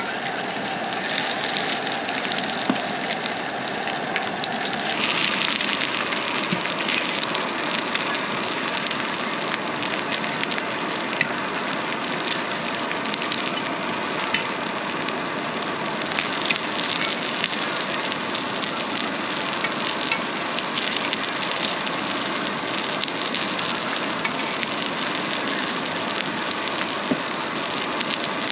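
Egg-battered skewers frying in oil on a round griddle pan: a steady sizzle with scattered pops, a little louder from about five seconds in.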